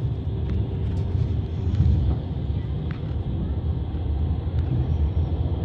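Passenger train running on the Trans-Siberian line, heard from inside the carriage: a steady low rumble of wheels on the rails, with a few faint clicks.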